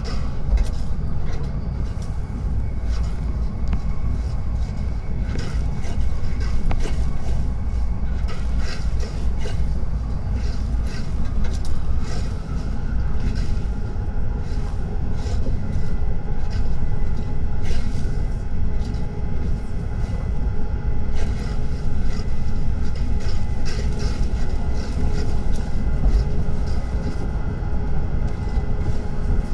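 Tokaido Shinkansen train running at speed: a steady low rumble with many short, irregular clicks and ticks over it.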